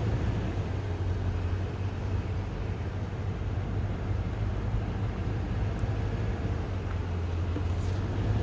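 Steady low hum of a car moving slowly, heard from inside the cabin.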